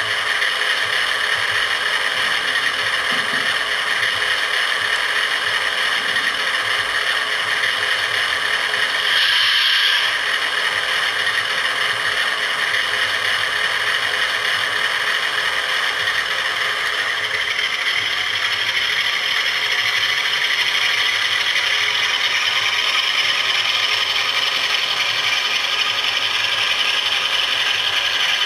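Model Class 47 diesel locomotive with a TTS sound decoder running: a recorded diesel engine sound played steadily through its small onboard speaker, mixed with the whirr of the model's motor and gears. A brief, louder, higher sound comes about nine seconds in.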